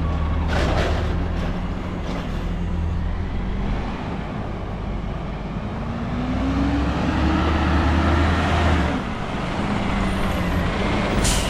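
Peterbilt 320 garbage truck's engine running, speeding up for about three seconds in the middle and then settling back, with a brief sharp noise near the end.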